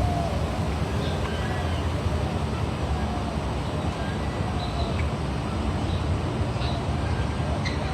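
A steady low rumble, with faint short bird chirps and calls scattered through it.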